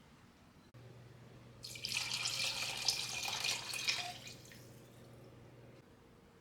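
Kitchen tap running into a sink for about two and a half seconds, then shut off, over a faint low hum.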